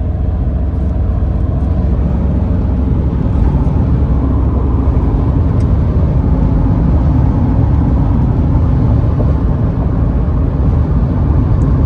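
Mitsubishi Pajero's 3.2-litre 4M41 turbo-diesel engine running, a steady low rumble with a few faint ticks.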